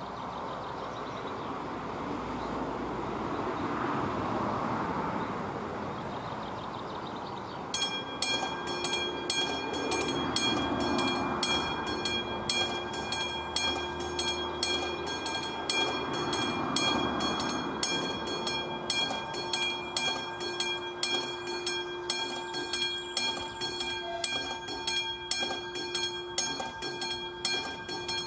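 A car passes, then about eight seconds in a railway level crossing's warning bell starts ringing: rapid, even strikes with a steady ringing tone, signalling an approaching train.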